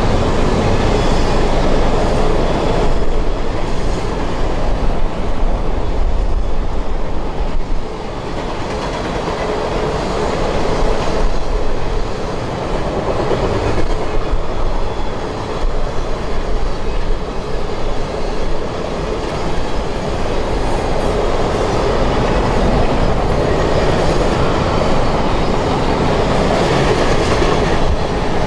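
Double-stack intermodal freight cars of a CSX train rolling past: a steady, loud rumble of steel wheels on rail, with the clickety-clack of the wheels crossing rail joints.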